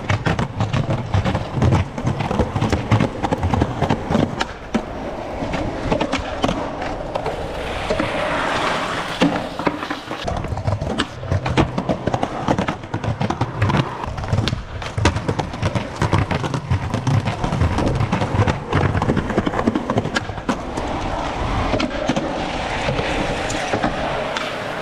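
Skateboard wheels rolling over rough concrete, with many sharp clacks and knocks of the board: tail pops, landings and the deck slapping the ground. Gritty rolling hiss rises twice, about a third of the way in and near the end.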